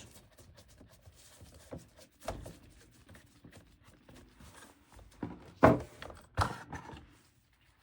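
Plastic clicks and knocks of a Roomba i7's wheel motor module being worked loose and pulled out of the robot's chassis, with one knock about two seconds in and a cluster of louder knocks between about five and six and a half seconds in.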